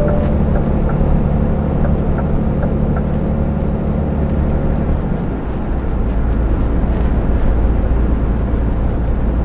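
Iveco truck's diesel engine and road noise heard inside the cab while driving at motorway speed. About five seconds in, the engine note drops to a deeper tone. A light, regular ticking runs through the first three seconds.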